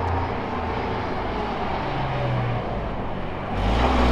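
Double-decker bus's diesel engine running as the bus drives past, a steady low drone whose note shifts about three and a half seconds in.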